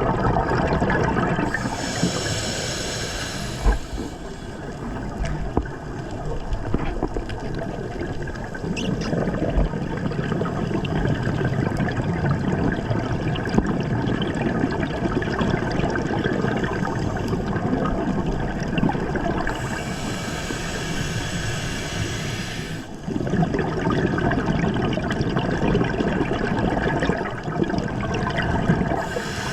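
Underwater sound of scuba diving: steady rushing and bubbling from divers' regulators and exhaled bubbles, with a few-second burst of brighter hissing about two seconds in, another around twenty seconds in, and a third starting near the end.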